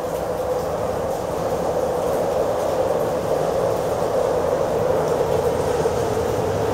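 A train passing: a steady rumble of wheels on rails that slowly grows louder.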